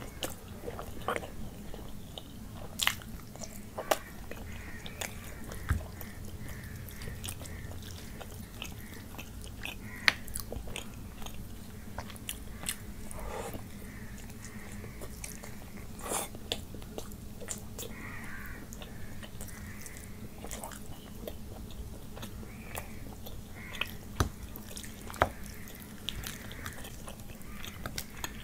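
Close-miked eating of fish curry by hand: chewing and wet mouth sounds, with many sharp, irregular clicks and crunches.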